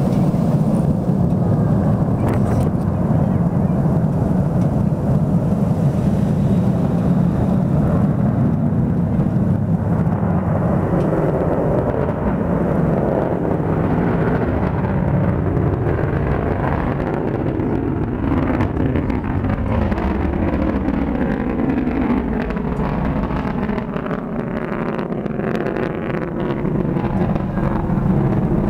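Delta II rocket launch rumble: a loud, steady low noise that eases off slightly in the last few seconds.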